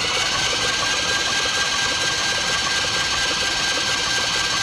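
Starter motor cranking the freshly unseized Ford Galaxie engine over with its spark plugs out: a steady whirring with a constant high whine, the engine now turning freely.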